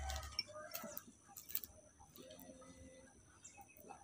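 Faint bird calls in the background, with a low held call from about two seconds in, and a few faint clicks in the first second and a half.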